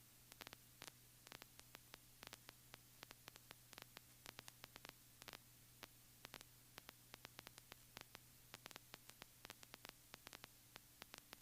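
Near silence on the recorded audio line: a faint steady electrical hum with scattered faint static clicks.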